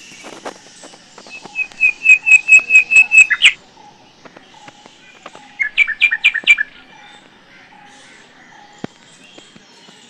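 A bird calling: a run of about ten quick, repeated high notes that grow louder and end in an upward flourish, then a shorter burst of notes a couple of seconds later.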